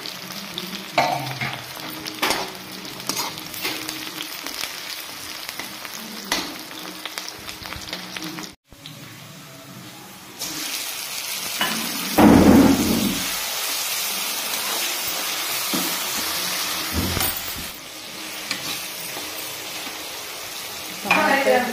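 Onions and green chillies sizzling in hot oil in a kadhai, with a metal ladle scraping and clicking against the pan as they are stirred. About halfway through, chopped tomatoes go in: the sizzle turns louder and brighter, with one heavy thump, and the stirring carries on.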